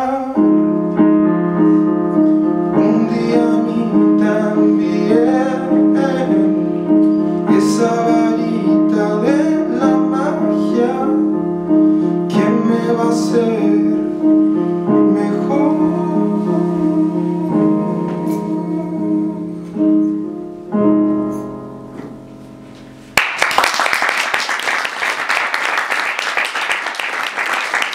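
Acoustic piano playing repeated closing chords with a voice singing the final phrases over them, then the last chord fading out. About 23 seconds in, the audience breaks into sudden applause.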